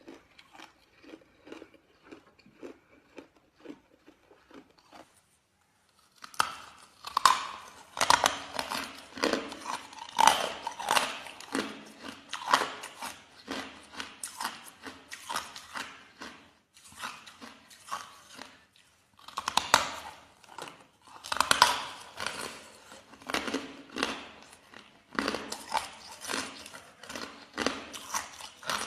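A person biting and chewing ice, crunching it. Softer chewing for the first few seconds, then a short gap, then much louder, rapid crunching in repeated bouts.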